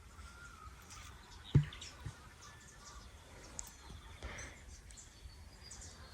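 Faint garden birdsong: scattered short chirps from small birds. A single sharp knock about a second and a half in is the loudest sound, with a softer one shortly after.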